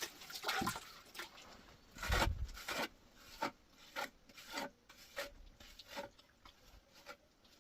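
Rhythmic rasping strokes, one to two a second, with the loudest about two seconds in.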